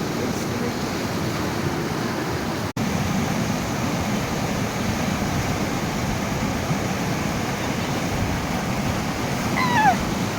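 Water rushing steadily, a loud even noise that briefly drops out about two and a half seconds in. Near the end a short high-pitched sound falls in pitch.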